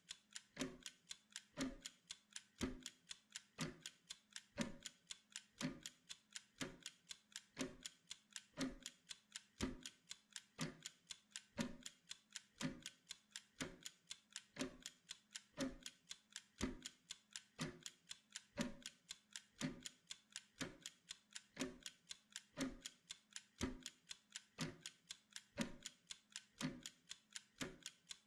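Clock ticking steadily and evenly, several sharp ticks a second, with no pause or change.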